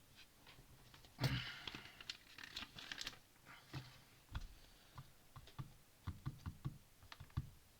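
Plastic Lego bricks clicking and rattling as they are handled and snapped together: a burst of rattling about a second in, then scattered sharp clicks.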